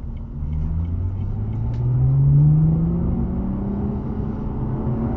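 Sports car engine accelerating, heard from inside the cabin: its pitch rises steadily for a few seconds, loudest about two and a half seconds in, then holds steady at cruising speed.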